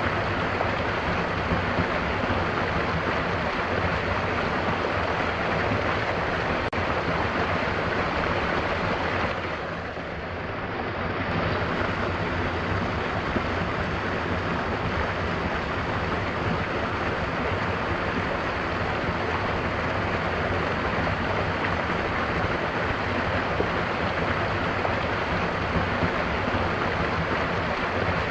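Mountain waterfall: falling water rushing in a steady, even wash of noise. The level dips briefly about ten seconds in, then returns to the same steady rush.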